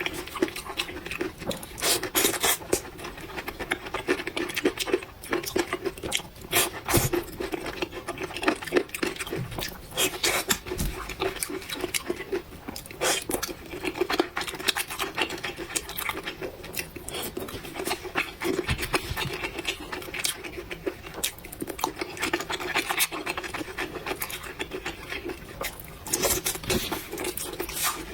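Close-miked eating: chewing of spicy noodles and fried pork tendon, full of short wet clicks and scrapes, with a steady low hum underneath.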